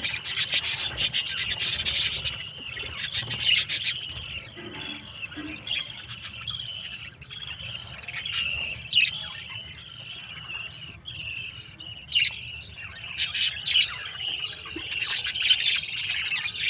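Many small birds chirping at once: a dense, continuous chatter of high calls overlapping one another, with a scatter of sharp clicks.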